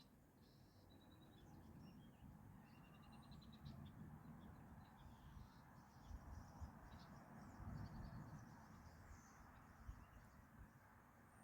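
Faint birdsong: scattered short chirps and two quick trills in the first half, over a soft low rumble.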